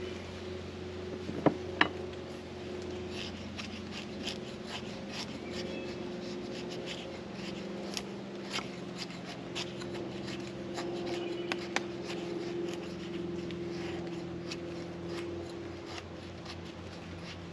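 Dry bark tinder, tulip bark and cedar, being worked and crumpled in the hands, giving scattered small crackles and clicks, with two sharper knocks about a second and a half in.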